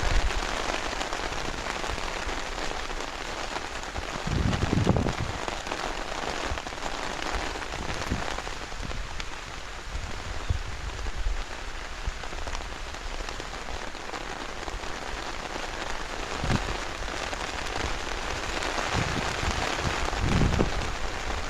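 Steady rain falling, a continuous even hiss, with a few low thuds about five seconds in and near the end.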